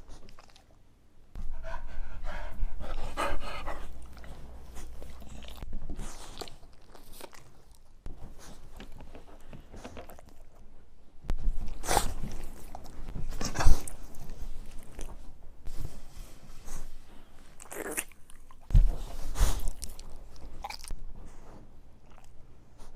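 Dog sounds with crunching and chewing noises, changing abruptly every few seconds, with a few sharp loud knocks.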